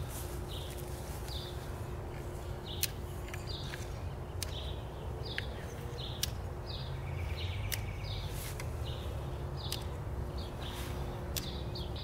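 Outdoor ambience: a bird calls over and over in short high chirps, about one a second, over a steady low rumble, with a few sharp clicks scattered through.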